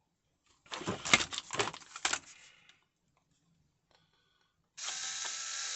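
Clicking and clattering of small parts being handled and fitted by hand onto an RC buggy chassis, lasting about two seconds. A steady whirring hiss starts near the end.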